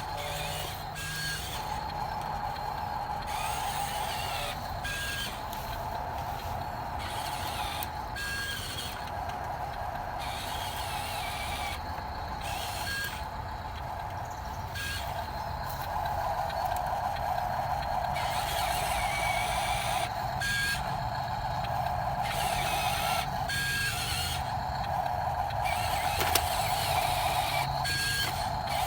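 Truck motor running with a steady whine that stops briefly every few seconds and starts again.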